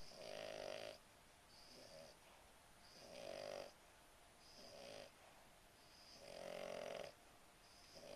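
A sleeping puggle snoring in a steady rhythm, about one snore every second and a half, louder and softer snores in turn.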